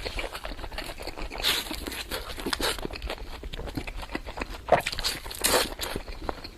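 Close-miked eating: a person biting and chewing fast, with dense, irregular crunching clicks and a few louder bites.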